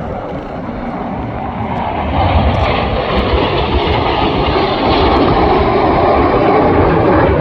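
Fixed-wing display aircraft's engine noise as it flies over, a broad roar that grows louder about two seconds in and then holds.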